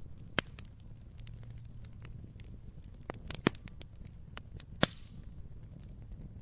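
Wood fire crackling: many small sharp snaps, with three louder pops about half a second in, about three and a half seconds in and near five seconds, over a low steady rumble.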